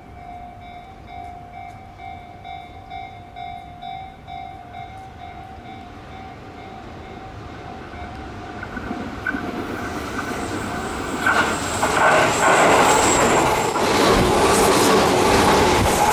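A level crossing bell rings steadily as a Tobu 8000 series train approaches. From about ten seconds in the train's running noise rises sharply and it passes close by at speed, its wheels squealing against the rails on the curve.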